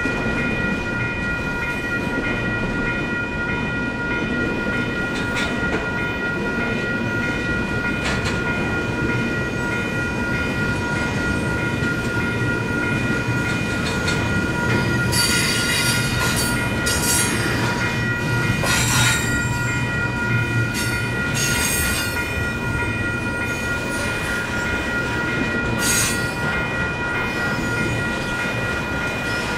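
Grade-crossing electronic bells (WCH Type 4) ringing steadily while a double-stack intermodal freight train rolls past with a continuous rumble and clatter of wheels on rail. Several brief, sharp, high metallic bursts come from the passing cars, mostly in the second half.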